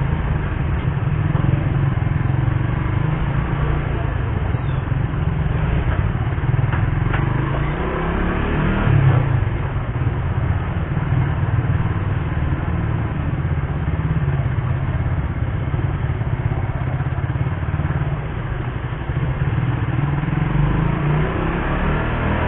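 Suzuki GSX-R150's single-cylinder engine running steadily while the motorcycle is ridden, with a brief rise in revs about nine seconds in.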